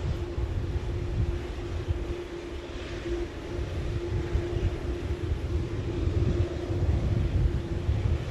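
Jet airliner's engines: a loud, low rumble with a steady droning tone held over it.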